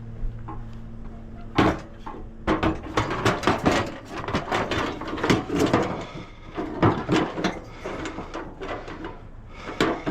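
A rapid series of knocks and rattles from scrap being handled, starting about a second and a half in. A steady low hum sits underneath during the first couple of seconds.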